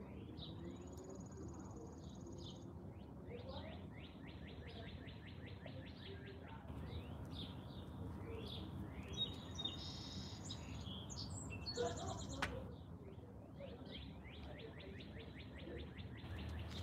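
Songbirds singing: fast trills of quickly repeated chirps, with a few higher buzzy trills, over a low steady outdoor rumble. A few faint clicks come around the middle.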